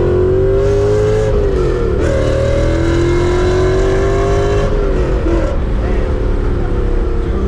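Supercharged 4.9-litre S62 V8 with a straight-piped exhaust pulling under acceleration. The engine note climbs, falls at a gear change about a second and a half in, climbs again, and falls at another shift near five seconds, then runs steadier.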